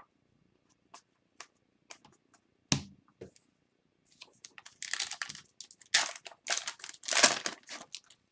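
Light clicks of cards being handled and a single thump about a third of the way in, then a foil trading-card pack wrapper being torn open and crinkled for the last four seconds or so.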